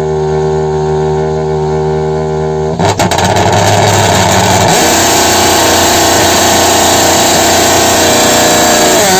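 Toyota GR Yaris rally car's turbocharged three-cylinder engine held at steady raised revs on launch control, then, about three seconds in, a few sharp cracks and a sudden jump to a louder, steady high-revving run as the car is launched.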